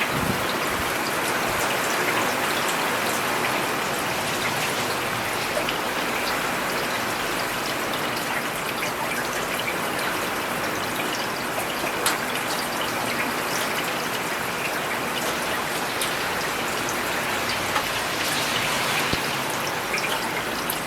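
Steady rain falling on a paved urban road: an even hiss with scattered sharp ticks of individual drops, one louder tick about halfway through.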